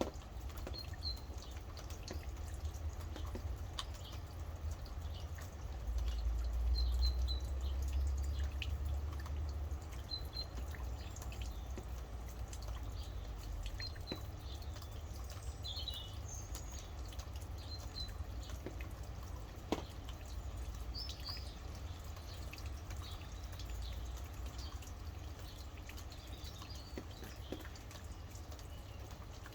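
Rain dripping in many small, irregular drops, with small birds giving short, high chirps every few seconds. A low rumble swells for a few seconds starting about six seconds in.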